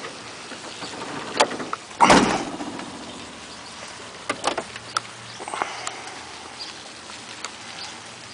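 The trunk lid of a 1957 Ford Thunderbird shut with one heavy thump about two seconds in, followed by a few lighter clicks and knocks.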